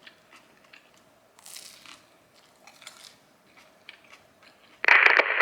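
Faint chewing and crunching on a toasted, burnt grilled cheese sandwich, with scattered small crunches. Near the end comes one loud, short burst of noise.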